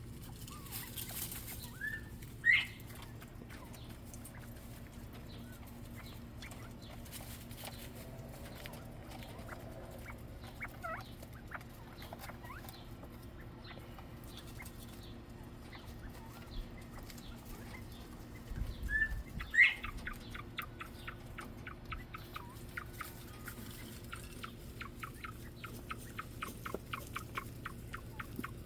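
Quail in an aviary giving short rising chirps, once early and again about two-thirds in, over a steady low hum. A fast run of soft ticks follows near the end.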